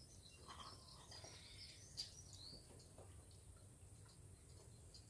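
Quiet outdoor ambience with faint, short bird chirps and one sharp click about two seconds in.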